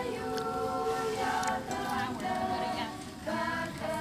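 A group of voices singing a song together, choir-like, with long held notes.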